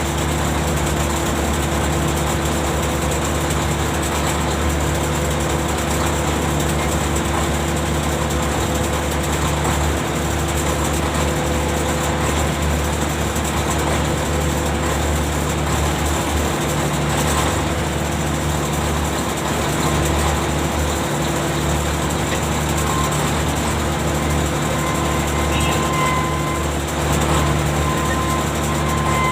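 Ship's deck machinery running steadily with a constant low mechanical hum and drone, as when the anchor is being heaved up.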